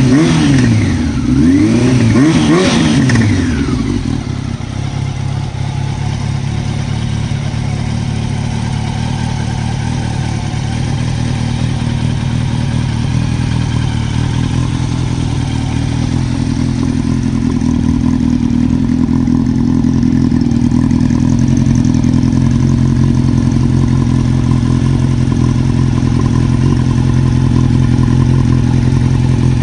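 Honda CB750 (RC42) air-cooled inline-four running through a Moriwaki titanium muffler, blipped up and down a couple of times for the first few seconds, then settling to a steady idle.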